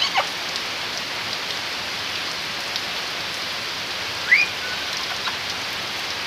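Heavy rain falling steadily on wooden planks, with a short rising squawk from an Amazon parrot about four seconds in.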